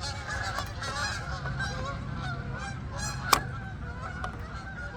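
Many short honking bird calls overlapping throughout, with one sharp click about three seconds in.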